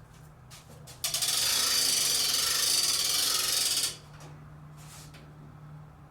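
A dense, rapid mechanical rattling lasting about three seconds, over a steady low hum.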